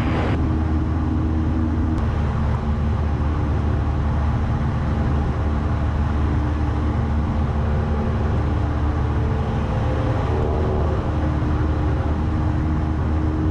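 Steady engine and propeller drone of a Cessna 172 in cruise flight, heard inside the cabin. Its four-cylinder Lycoming engine runs at an even power setting.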